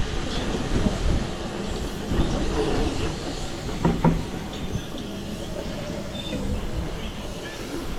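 Rumble of wind and road noise on a handheld camera while riding a bicycle in a group ride, with a brief sharp higher-pitched sound about four seconds in.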